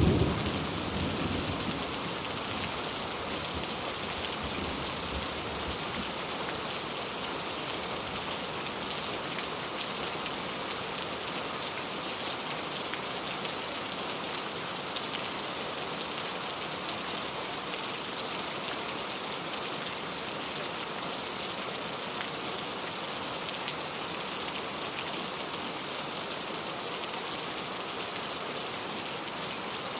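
Steady rain falling, an even hiss of many drops on a surface. Right at the start a loud low thunderclap peaks and rumbles away over the first few seconds.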